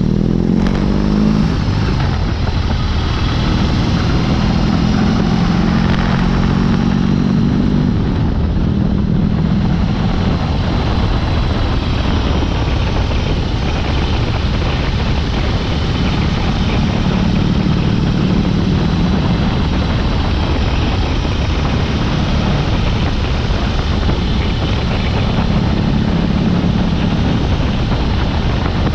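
BMW R18's 1.8-litre boxer twin running through an open Dr. Jekill & Mr. Hyde exhaust while the bike is ridden, over steady wind rush. The engine note swells several times and eases back in between.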